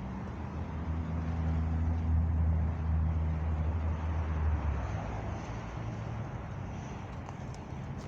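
A motor vehicle going past, its low engine hum swelling and then fading out about five seconds in, over steady outdoor traffic noise.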